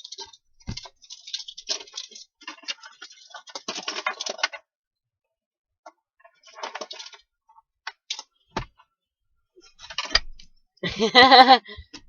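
Scattered small clicks and rustles of handling close to the microphone, with a short hummed or murmured voice sound near the end.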